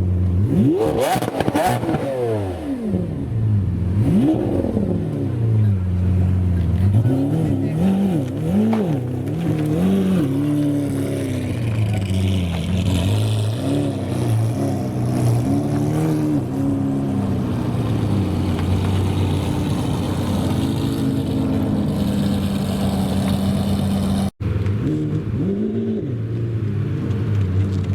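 A supercar engine idling with repeated throttle blips: the revs rise sharply and fall back again and again. The sound breaks off for an instant near the end and then picks up again.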